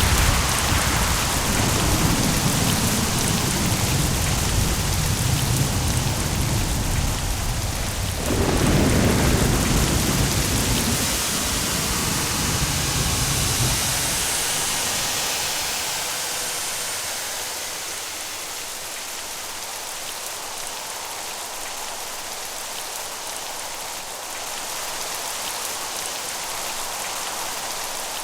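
Steady heavy rain with rolling thunder: a low rumble carries on from the start, a second peal comes about eight seconds in and rolls on, fading out about halfway through and leaving only the hiss of the rain.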